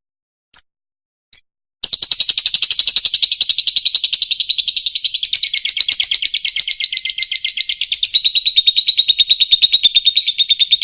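Fischer's lovebird singing: two short chirps, then about two seconds in a long, rapid, evenly pulsed high trill that runs for about nine seconds.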